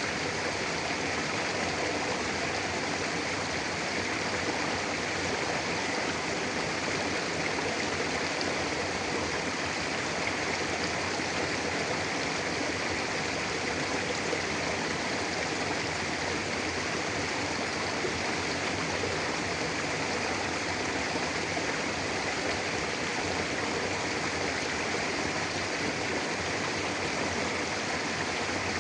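Mountain river flowing steadily over rocks, a constant rushing of water.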